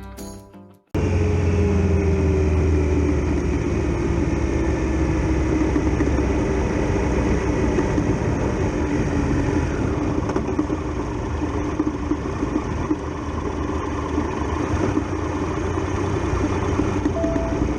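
Triumph Tiger Explorer XRx's three-cylinder engine idling steadily, its pitch settling slightly lower over the first few seconds.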